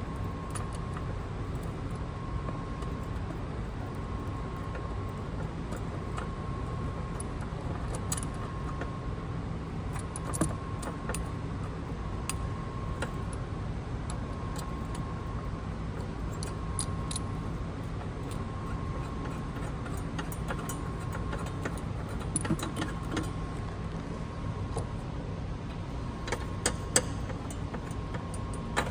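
Scattered metallic clicks and clinks of a wrench or socket working the battery hold-down bracket and terminal hardware, over a steady low hum and a faint tone pulsing roughly once a second.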